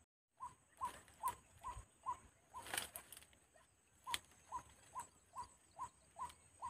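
A bird repeating one short note over and over at a steady rate, about two and a half calls a second, faint and unchanging in pitch. A brief rustle sounds about three seconds in.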